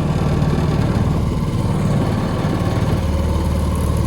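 Small Chinese outboard motor with a lawnmower-type engine running steadily.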